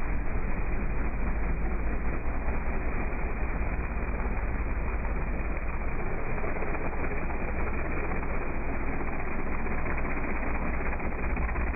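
Street-modified GMC Sierra pickup's engine running hard through a mud bog: a loud, steady, dense noise with a heavy low rumble.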